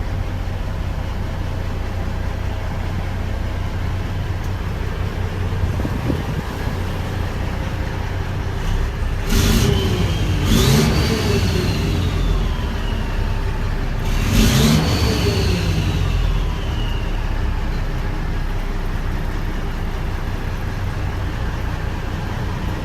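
Diesel engine of a 1999 Kenworth W900 dump truck idling steadily, revved up and back down about nine seconds in and again around fourteen seconds, a high whine falling away after each rev.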